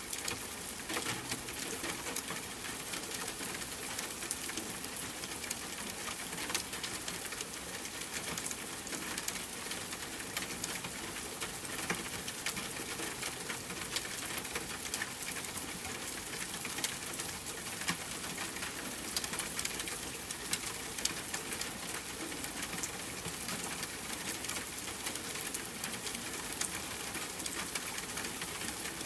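Steady rain falling, with many individual drops ticking sharply over the even hiss of the downpour.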